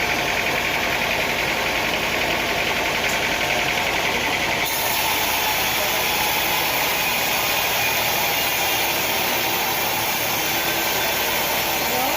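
Sawmill machinery running with a steady, engine-like drone at a constant level.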